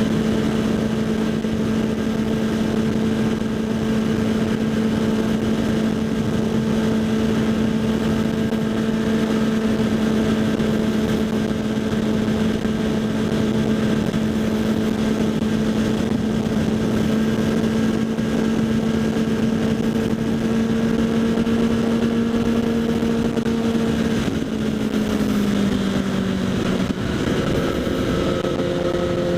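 Kawasaki Z800's inline-four engine through a LeoVince SBK exhaust, heard while riding at steady revs under a rush of wind noise. Near the end the revs drop, and the engine note falls and then changes pitch again.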